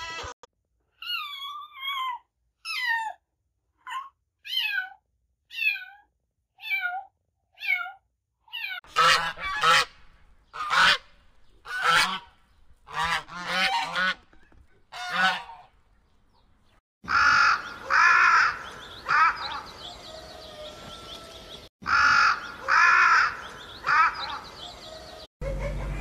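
A run of about eight short calls, each sliding down in pitch, roughly one a second. Then white domestic geese honking loudly, over and over in quick runs.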